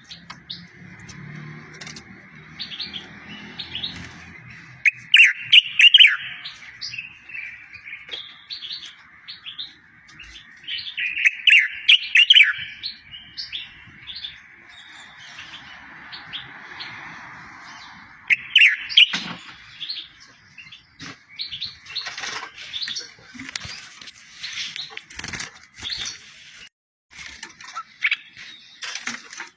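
A small songbird singing as a tutor song for goldfinches and canaries: a phrase of quick sweeping whistled notes comes back about every six seconds among a continuous light twittering, and the twittering grows denser over the last third.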